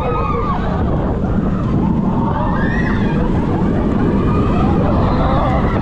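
Roller coaster ride at speed: heavy wind rush on the microphone over the train's steady rumble, with a few faint squeals that bend in pitch.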